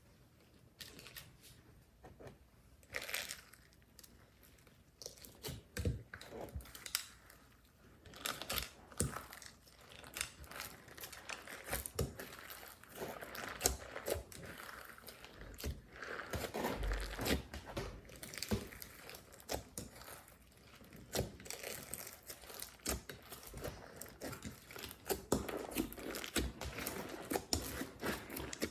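Slime mixed with makeup and glitter being squeezed, stretched and kneaded by hand: irregular sticky crackling and popping, sparse at first and busier after the first few seconds.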